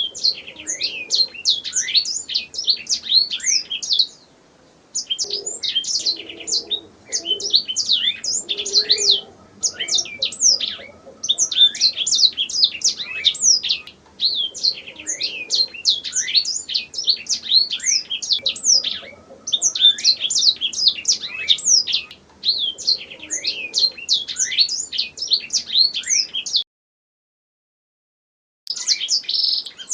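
Domestic canary singing: long phrases of rapid, high trills and chirps, each a few seconds long with short breaks between them. Near the end the sound cuts out completely for about two seconds, then the song resumes.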